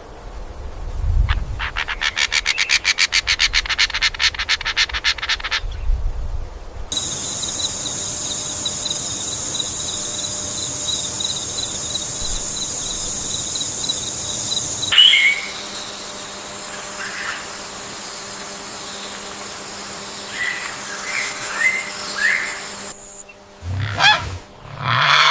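Bird calls from several clips in a row: a fast, even rattle for a few seconds, then a steady high-pitched whine, then scattered short chirps, with a couple of louder calls near the end.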